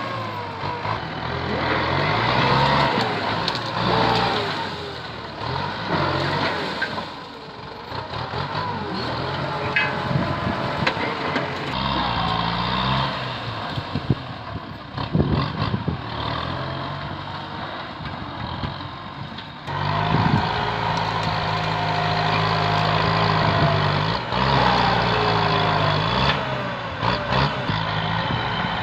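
Kubota M8540 tractor's diesel engine working under load, its speed rising and falling in steps as it pushes through brush, with a few sharp knocks near the middle and the engine getting louder about two-thirds of the way in.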